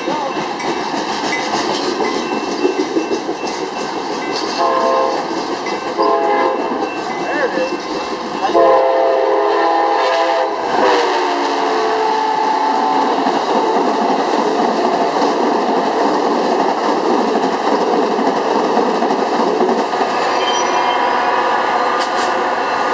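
Amtrak passenger train running through at speed: its locomotive horn sounds a chord in short blasts about four and six seconds in, then a long blast about eight seconds in that drops in pitch as it passes. Then comes the steady rush and wheel clatter of the passenger cars going by close.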